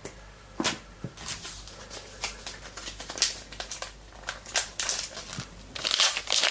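A trading card pack wrapper crinkling and being torn open, an irregular string of sharp crackles that gets busier near the end.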